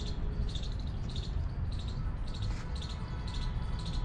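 A bird chirping, a short high call repeated about every half second, over a steady low rumble.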